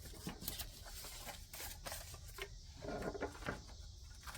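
Paper money and envelopes being handled: light rustling with scattered small taps and clicks.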